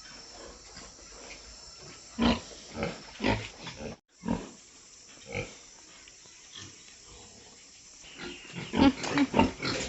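Domestic pigs grunting: short, separate grunts now and then, then a quick run of louder grunts near the end.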